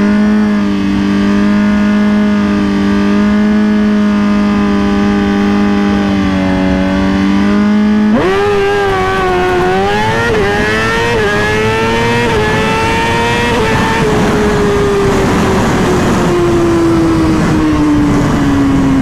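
2020 Suzuki GSX-R 1000's inline-four engine held at steady revs on the start line, then launched hard and run up through four quick air-shifter upshifts, each a brief dip in pitch, before the throttle is rolled off and the revs fall away steadily. The rider blames too much ignition kill time in the shifter settings for slowing the upshifts.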